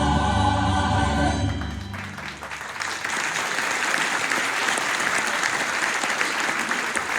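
A choir with instrumental accompaniment holds a final chord that ends about two seconds in, followed by steady audience applause.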